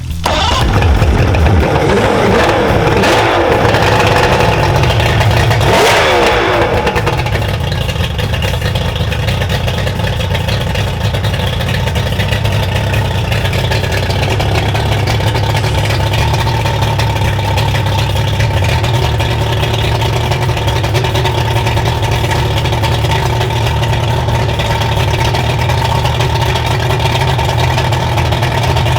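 Two-stroke outboard engine with a freshly swapped powerhead coming to life on its first start: it catches suddenly, revs up and down for several seconds, then settles into a steady idle, which the crew goes on to judge healthy with the timing about right.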